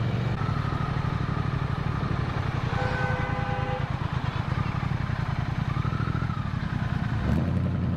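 Motorcycle engine running steadily under way, with wind and road noise, as heard from the rider. A short steady high tone sounds briefly about three seconds in, and the engine note changes near the end.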